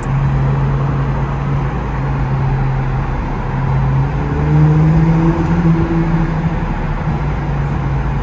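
Muffler-deleted Infiniti Q50 exhaust droning steadily under way, rising in pitch as the car accelerates about halfway through, then easing back.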